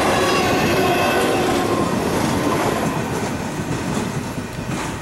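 The last empty intermodal cars of a freight train rolling by: steel wheels clicking and rumbling on the rails, with faint wheel squeal. The sound fades gradually from about halfway through as the end of the train moves away.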